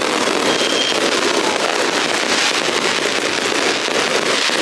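Fireworks going off: a loud, dense crackle of many rapid pops and bangs, with a faint whistle near the start.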